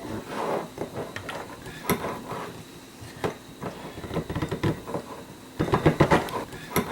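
Cucumber spears being pushed and packed tightly into a container: irregular knocks and clicks of handling, with a louder flurry a little before the end.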